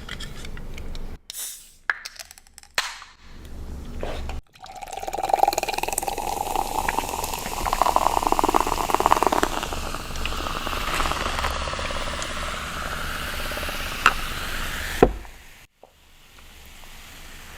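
Drink being poured into a container for about ten seconds, the pitch of the pour rising as it fills, then stopping abruptly; a few short taps and handling sounds come before it.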